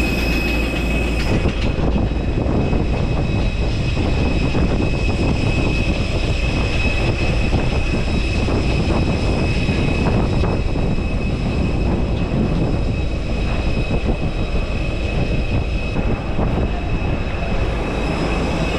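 Airbus A320 running on the ground: a steady rumble with a high, even whine over it.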